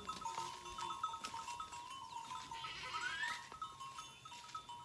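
Goats bleating faintly, one rising call about three seconds in, over a steady, rhythmically pulsing high tone.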